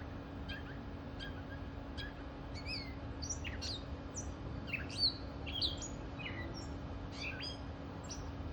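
A bird calling: short sharp notes about twice a second at first, then from about two and a half seconds in a quick, varied string of chirps and whistles that sweep up and down in pitch.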